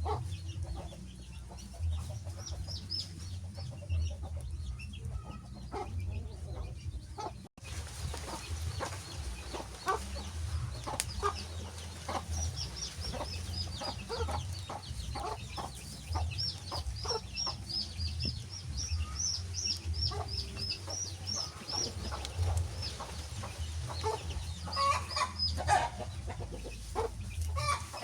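Wood fire crackling with scattered sharp pops over a low steady rumble. About halfway in, a quick run of short high chirps starts and lasts several seconds. The sound briefly drops out about a quarter of the way in.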